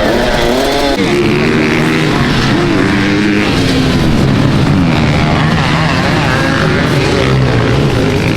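Several motocross bike engines running at once, overlapping, their pitch rising and falling as they rev and shift.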